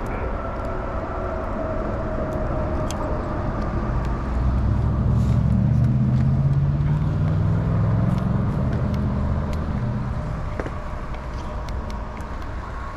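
A motor vehicle passing on a road: a low engine and tyre rumble swells about four seconds in and fades away after about ten seconds, over a steady background of traffic noise.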